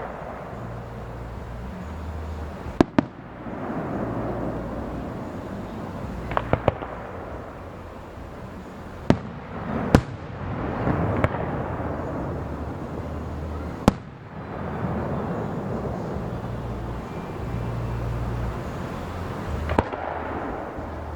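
Fireworks display: aerial shells bursting with sharp bangs, about seven of them, some in quick clusters, each followed by a lingering rumble.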